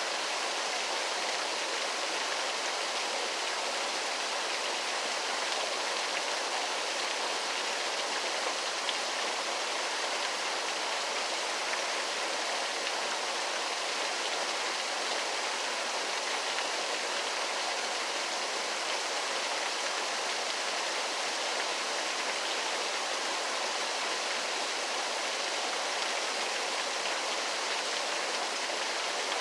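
Waterfall: a steady, even rush of falling water with no deep rumble.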